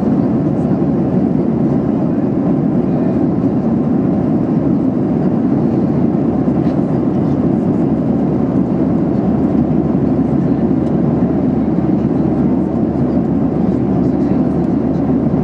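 Steady in-flight cabin noise of a Boeing 737-800 heard from inside the cabin at a window seat: an even, unchanging rush of airflow and the CFM56-7B engines.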